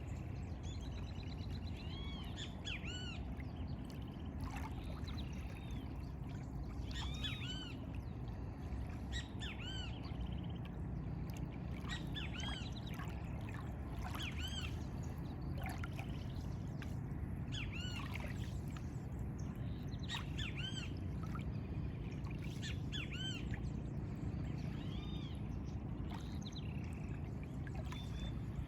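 Birds calling again and again with short arching notes that rise and fall, a few at a time every second or two, over a steady low rush of lagoon water.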